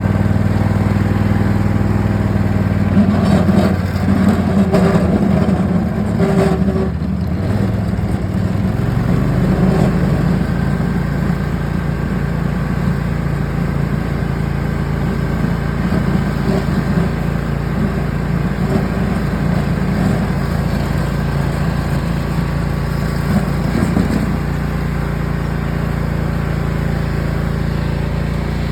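Lawn tractor engine running steadily under load while plowing snow with a homemade front blade, its pitch shifting slightly about eight seconds in.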